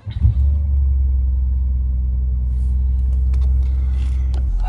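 Audi A7 3.0 TDI's V6 diesel engine cold-started in freezing weather: a brief crank as it fires, then a steady low idle hum. The hum drops a little in level shortly before the end.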